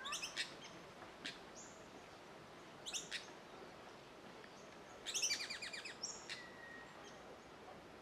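Small birds calling in bushland: short, very high, rapid trills at the start and about three seconds in, then a longer, louder trill about five seconds in, followed by a thin held whistle.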